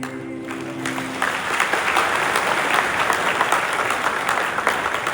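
Audience applauding, the clapping swelling in about a second in as the held notes of the dance music end.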